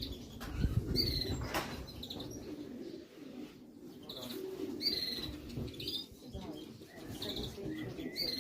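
Racing pigeons cooing at the loft, with bursts of wing flapping about a second in and short high chirps scattered through.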